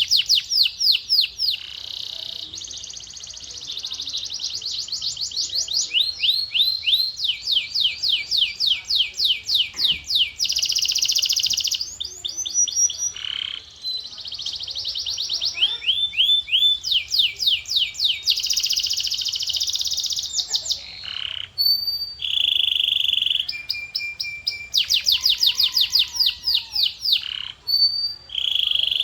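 Male canary singing a continuous song of rapid trills, one after another, each a fast run of repeated notes, broken by buzzy rolling passages and short held whistles.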